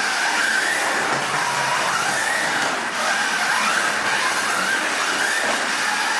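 Slot car's small electric motor whining as the car runs on a Carrera plastic track, the pitch rising and falling with throttle through the corners, over a steady rattling hiss of the car on the track.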